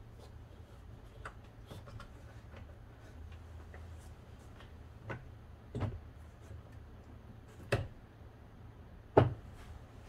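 Scattered clicks and knocks of hand work on a car's rear door interior, plastic parts and tools being handled and fitted. The knocks come irregularly, a few light ones early and heavier ones later, the loudest near the end.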